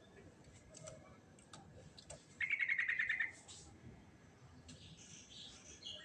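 Yellow-vented bulbul (trucukan) singing: scattered short chips, then a loud rapid run of about ten notes lasting about a second near the middle, followed by softer, higher scratchy chatter near the end.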